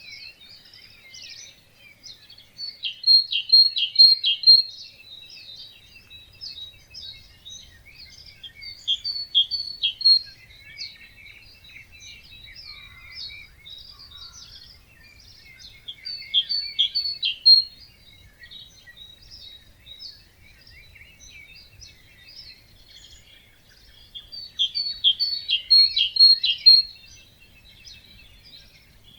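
A chorus of wetland birds singing and chirping at dawn. One bird repeats a loud song phrase of about two seconds roughly every seven seconds, four times, over steady chirping from other birds.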